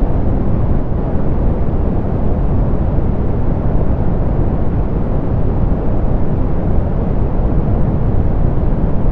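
Steady, softened pink noise: an even hiss weighted toward the low end, rumbling more than hissing, with no changes or events.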